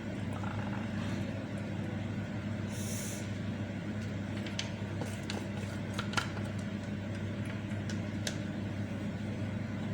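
A steady low hum with a few light clicks of a spoon against a bowl, as sambal chili paste is spooned in, and a brief hiss about three seconds in.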